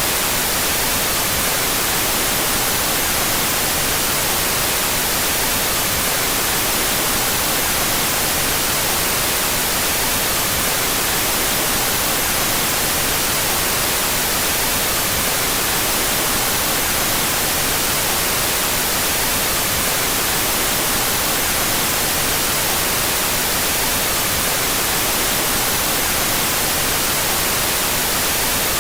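Synthetic white noise, a steady unbroken hiss, with the stereo channels out of phase with each other.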